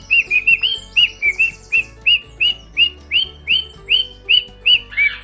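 Parrot calling in a rapid, even series of short chirps, about three a second, each one arching up and then down in pitch, with a lower chirp near the end. Quiet background music underneath.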